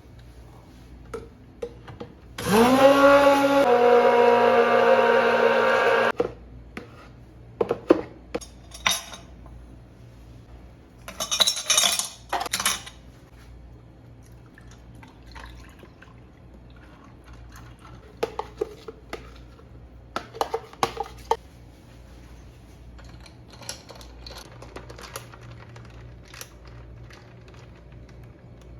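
A small electric blender runs for about four seconds, spinning up with a rising whine, then holding a steady pitch that drops a little partway through. After it come several bursts of clinking, like utensils and glassware knocking against each other.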